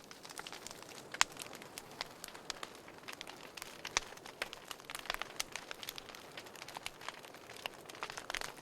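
Wood fire in a fireplace crackling, with irregular sharp pops and snaps over a soft hiss and a few louder pops.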